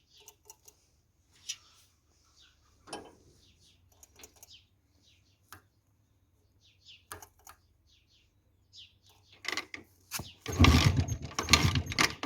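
Scattered faint clicks, then about ten seconds in a CZ 350 motorcycle's two-stroke engine starts and runs loudly with a fast, rattling beat.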